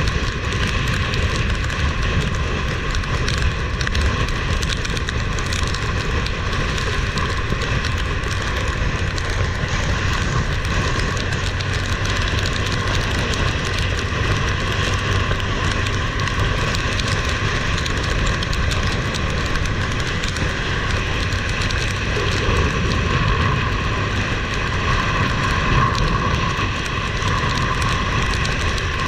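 Heavy rain pouring down steadily, a dense continuous hiss.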